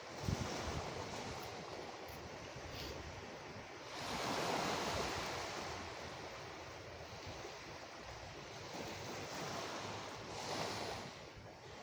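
Sea waves washing onto the shore in a steady wash of surf, swelling louder as a wave comes in about four seconds in and again, more softly, near the end.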